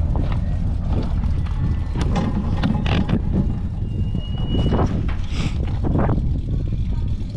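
John Deere 3010 propane tractor's four-cylinder engine running, with scattered knocks and clatter over the engine noise. A brief high-pitched tone sounds about four seconds in.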